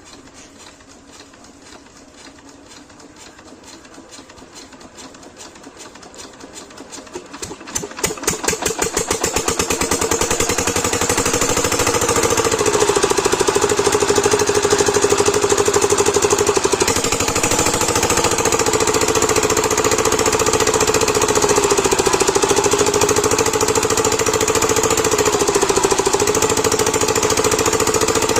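A 7 HP single-cylinder diesel water-pump engine spins up, its pulsing beat quickening and growing louder, and catches about eight seconds in. It then runs steadily at speed with a fast, hard knocking beat.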